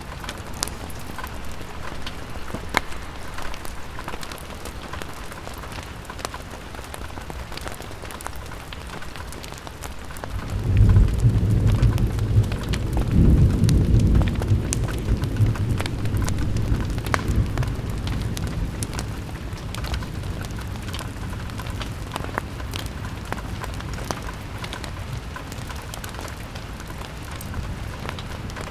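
Steady rain falling on window glass, a hiss dotted with sharp ticks. About ten seconds in, a low rumble of thunder rises suddenly, swells for a few seconds, then fades away.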